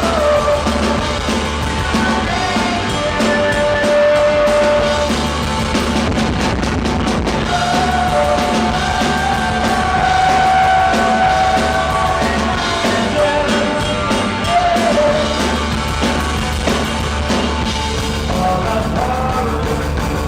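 Rock band playing live: a drum kit driving the beat under the band, with a voice singing long held notes.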